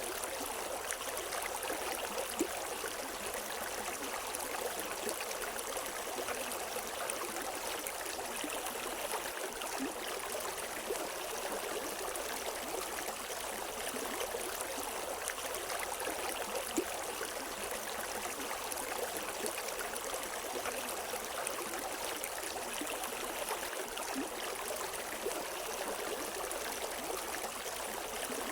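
River water flowing: a steady, even rush of water, with a few brief sharper sounds standing out now and then.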